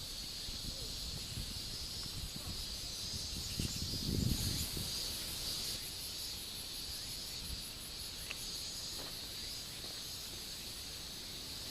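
Steady, high-pitched chorus of insects buzzing, with a brief low rumble about four seconds in.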